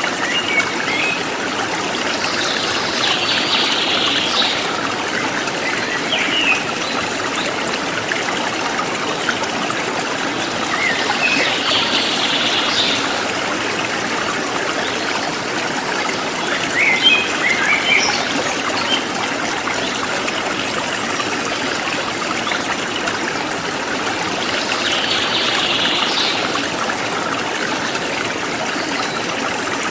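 Forest stream flowing steadily, with birds chirping in about four short bouts.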